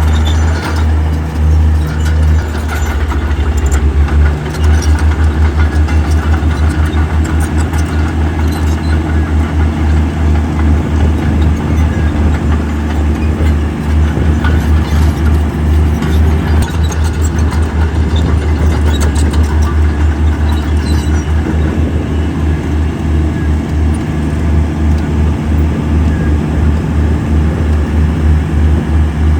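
Heavy construction machine's diesel engine running steadily with a deep, pulsing throb, with a few light metallic clicks and clanks over it.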